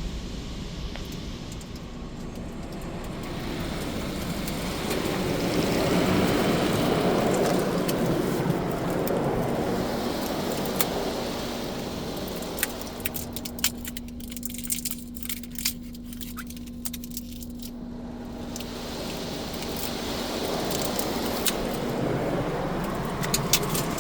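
Automatic car wash spraying and working over a car, heard from inside the cabin: a rushing wash that swells and eases, a steady hum through the middle, and scattered sharp ticks in the second half.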